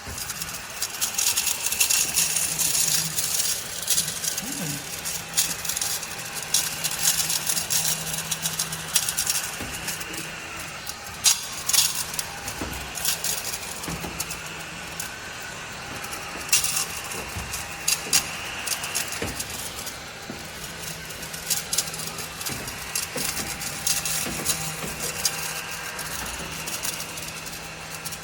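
Small cordless desktop vacuum cleaner running, its motor humming steadily, with frequent clicks and rattles throughout.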